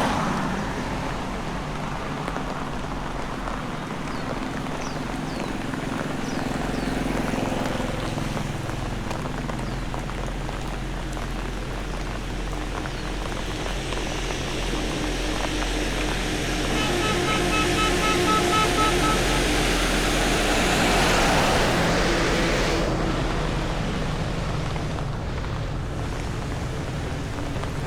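Rain and road traffic: a steady rain hiss with passing engine hum, and a short run of rapid beeping tones a little past the middle.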